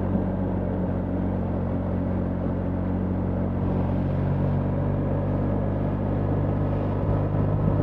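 BMW R 1300 GS 1300 cc boxer-twin engine running at a steady pace, a constant low engine hum with an even rushing noise over it, pulling a little harder near the end.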